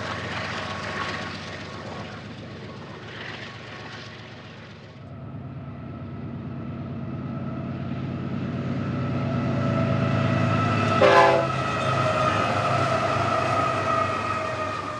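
Diesel locomotive running, its engine drone growing louder over the last two-thirds, with the horn sounding in long steady tones and a brief louder blast about eleven seconds in.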